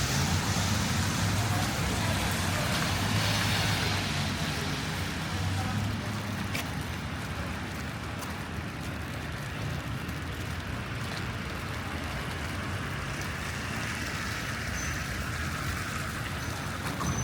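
City street traffic: a motor vehicle's engine runs close by with a low hum for the first few seconds, then fades, leaving a steady hiss of passing traffic.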